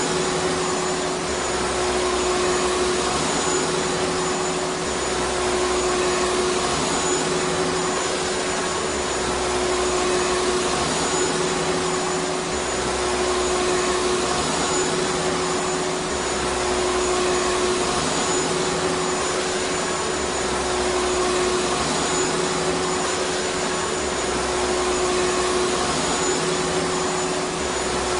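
Vacuum cleaner motor running steadily: a dense rushing of air with a constant hum-whine, its level gently rising and falling every few seconds.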